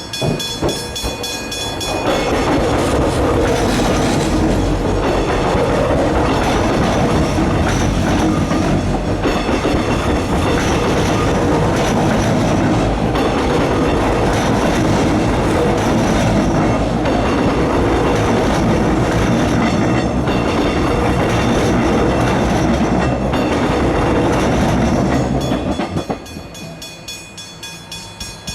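Level crossing warning bells ringing with rapid, regular strokes; about two seconds in, a train passes through the crossing with loud wheel and rail rumble and clatter that drowns the bells, and near the end it clears and the bells are heard again.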